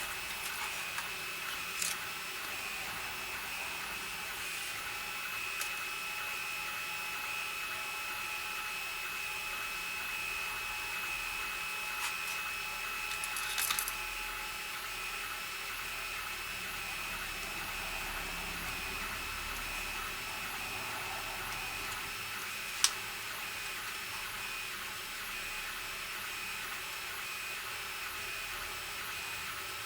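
A steady high-pitched electrical whine with faint hiss, broken by a few small clicks and a brief scratchy rustle of parts being handled. There is a short cluster of clicks about 13 to 14 seconds in and one sharp click about 23 seconds in.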